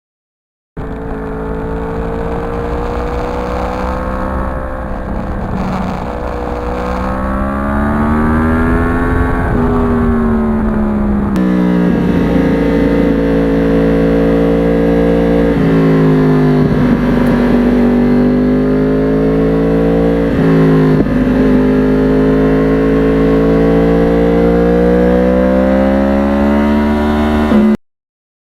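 2009 Yamaha R1 crossplane inline-four with a custom exhaust running on the road, its pitch rising and falling with the throttle, with three sudden drops in pitch along the way. The sound starts abruptly about a second in and cuts off suddenly near the end.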